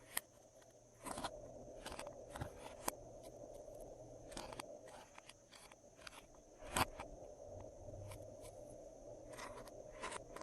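Slime being worked and mixed by hand: irregular soft clicks, pops and crackles, a few sharper ones standing out, over a faint steady hum.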